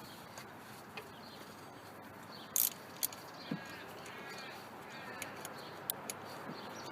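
A bird calls three times in the background with short arched notes, over a steady hiss. A loud, short, high-pitched clink comes about two and a half seconds in, and a few sharper clicks follow.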